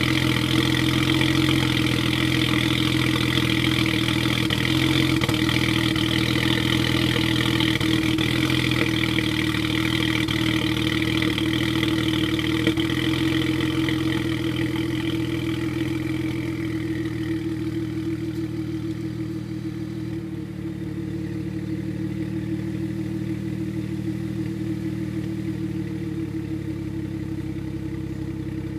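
BMW N54 twin-turbo inline-six idling steadily shortly after a cold start. A higher-pitched whirring over the engine note fades out about halfway through, and the idle then runs a little quieter, as the cold-start fast idle settles.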